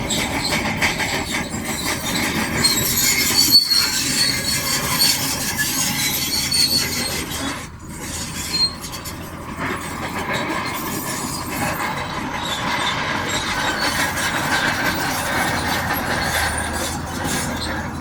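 Shantui DH17C2 crawler bulldozer working, its steel tracks squealing and clanking over the engine's noise, with a brief dip about eight seconds in.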